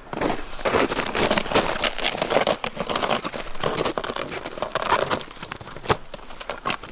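Snow crunching and scraping in an irregular run of crackles and sharp clicks as a dead wild animal is dragged through it by a front leg.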